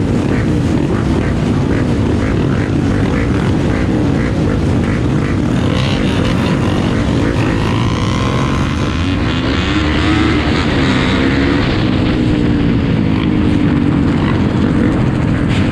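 Several off-road trail motorcycle engines running and revving together, their pitch rising and falling as they pull away and pass.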